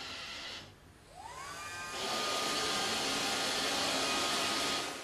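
Roomba 560 robot vacuum running. About a second in its motors spin up with a rising whine, then settle into a steady, louder vacuum hiss with a constant whine.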